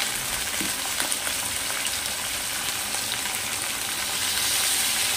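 Cauliflower florets sizzling steadily in hot mustard oil in a kadhai. The sizzle grows a little louder after salt is poured over them about four seconds in.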